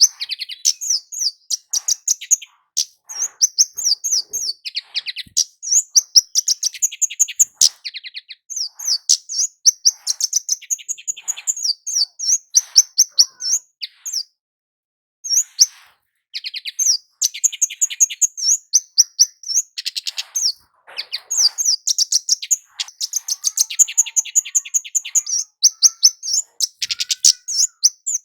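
Kemade jawa, a flowerpecker, calling: rapid runs of high, thin chip notes with a brief pause about halfway through.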